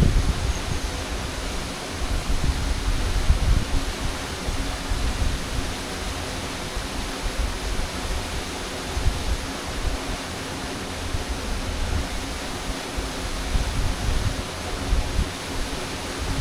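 Waterfall rushing steadily: a dense, even hiss of falling water with an uneven low rumble underneath.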